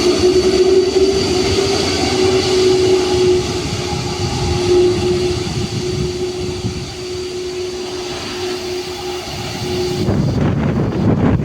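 Airbus A330-300 jet engines at takeoff power, a steady whine over a low rumble, slowly fading as the airliner climbs away. About ten seconds in, wind buffeting the microphone takes over.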